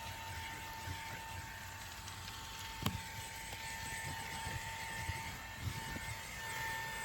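Fanttik V8 Apex cordless handheld vacuum running, a steady high whine over the hiss of air being drawn through the nozzle, with a sharp knock about three seconds in as the nozzle bumps something.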